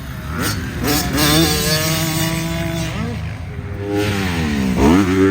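Dirt bike engine revving, its pitch rising and falling several times, with a sharp dip and a steep climb near the end.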